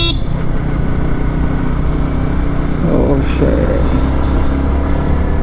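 Motorcycle running at a steady cruise, its engine hum buried under heavy wind rush on the microphone. A brief voice is heard about three seconds in.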